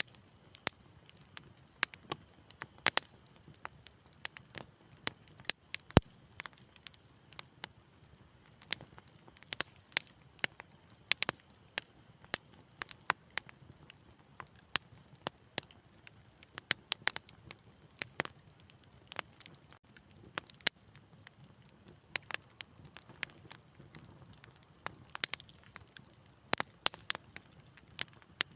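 Wood fire crackling: irregular sharp pops and snaps, several a second in clusters, over a faint low rumble of flames, with one louder pop about six seconds in.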